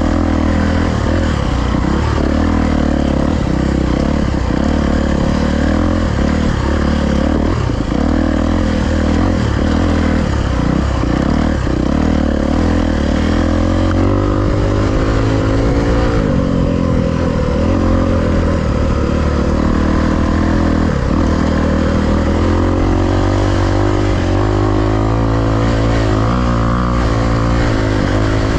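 Dirt bike engine running hard on a trail ride, its pitch rising and falling again and again as the throttle is opened and chopped, with many short dips where the revs fall away.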